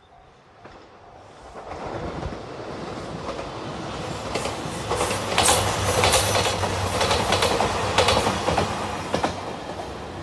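JR Shikoku 2700 series diesel limited express (Anpanman train) passing close. Its noise swells about two seconds in, with repeated clicks of the wheels over rail joints and a steady low engine hum, and eases slightly near the end.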